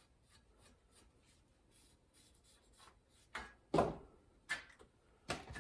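Light scratching and rubbing on a sheet-metal patch piece being worked by hand, then four short clunks from about three seconds in, the loudest a little before the middle of that run.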